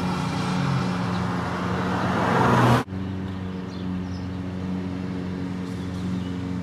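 Car engine idling steadily. A loud hiss over it builds for the first few seconds and then cuts off abruptly about three seconds in, leaving only the idle.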